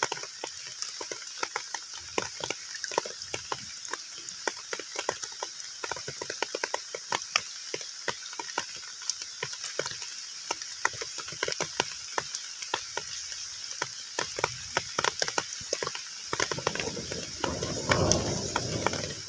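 Heavy rain falling on a pond surface: a steady hiss with many separate drop splashes and ticks at an irregular rate. About three-quarters of the way through, a fuller, louder rush of water swells in for the last few seconds.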